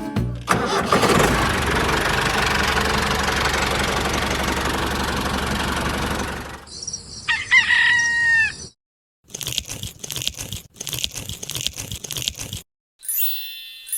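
A loud, steady rushing noise for about six seconds, then a rooster crowing once, followed by a run of rapid clicking and, near the end, repeated chime-like notes.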